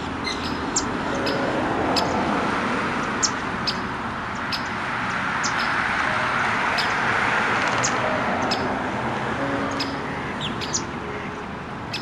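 Small birds chirping: many short, high, sharp chirps a few times a second, over a steady background hiss.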